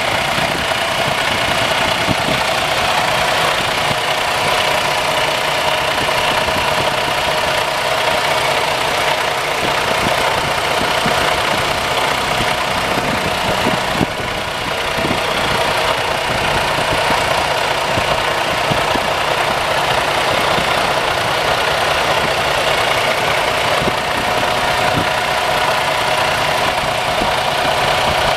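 Freightliner Cascadia semi truck's 505 hp Detroit diesel engine idling steadily, with a brief dip in level about halfway through.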